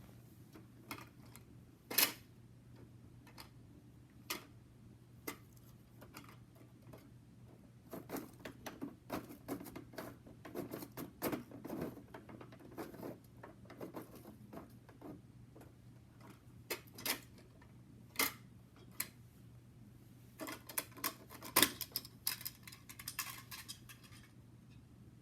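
Irregular small clicks and clattering of the plastic parts of a miniature rear-loader garbage truck being handled and worked, in two busier spells, over a faint steady low hum.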